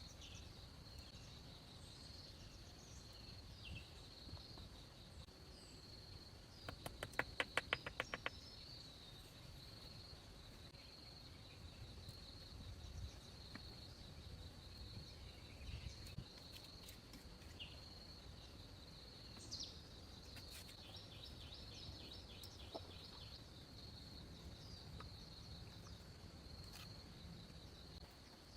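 Forest ambience: a steady, high insect trill runs throughout, with scattered faint bird chirps. About seven seconds in comes a quick run of about ten sharp taps.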